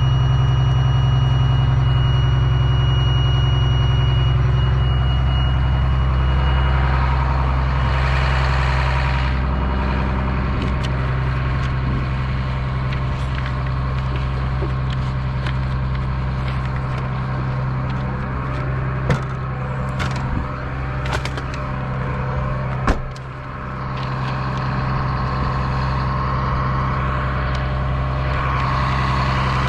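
Cat C7 diesel engine of a Blue Bird All American school bus idling steadily at a constant pitch. A steady high tone sounds for the first six seconds, and a few clicks and a sharp knock come about twenty seconds in.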